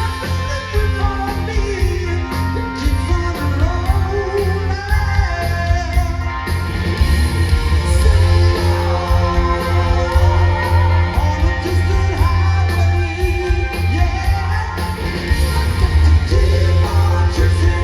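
Live rock band playing with a lead singer.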